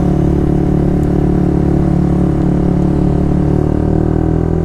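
A 150 cc motorcycle engine running at steady revs while riding, its pitch holding constant.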